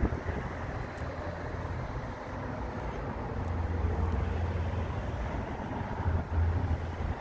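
Aston Martin Vantage engine idling: a steady low exhaust rumble that grows louder about halfway through.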